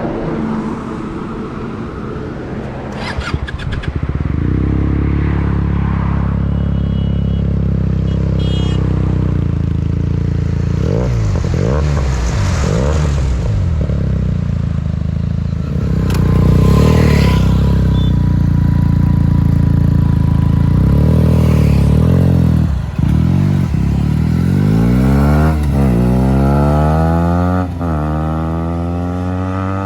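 Benelli 300 motorcycle's parallel-twin engine being started and revved: it fires up about four seconds in, then rises and falls through several blips of the throttle, with longer rising revs near the end.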